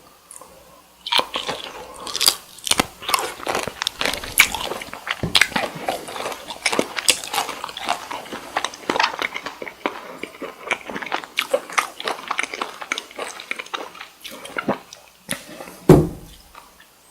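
Close-miked chewing of cooked cocktail shrimp, a dense run of wet clicking and crackling bite and chew sounds that starts about a second in. A loud low thump comes near the end.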